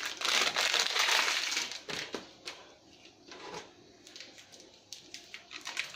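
Bicarb soda powder shifting with a granular hiss for about two seconds, then scattered light clicks and taps.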